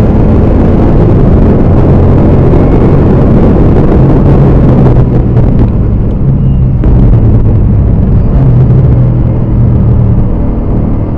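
BMW E39 M5's V8 engine running hard on track, loud. Its note steps and dips briefly a few times, as with gear changes or lifts off the throttle.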